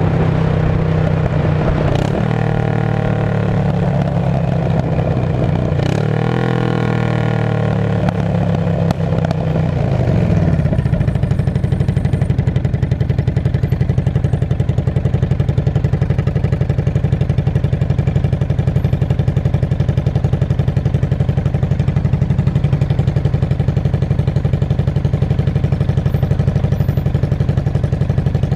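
Straight-piped 2002 Yamaha V-Star 650 V-twin running at raised revs, with a sharp pop about two seconds in and another about four seconds later. The revs then drop away and it settles into a steady, evenly pulsing idle about ten seconds in.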